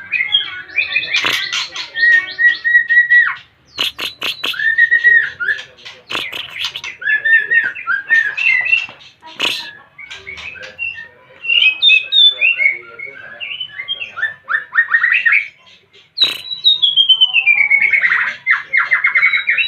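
A white-rumped shama (murai batu) singing a varied run of whistled phrases, rapid chattering notes and harsh calls, with a long falling whistle near the end. This is the energetic song of a bird coming into breeding condition.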